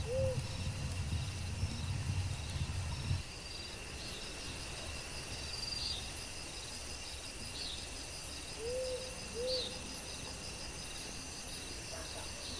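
Rainforest insects and crickets trilling steadily, with high pulsing chirps. A low two-note hoot sounds at the very start and again about nine seconds in, and a low rumble cuts off about three seconds in.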